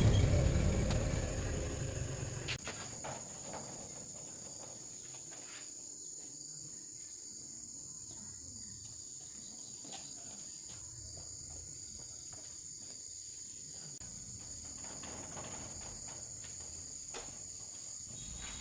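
Insects chirring in a steady high-pitched drone. A loud low rumble fades out over the first two seconds, and a few faint clicks are heard.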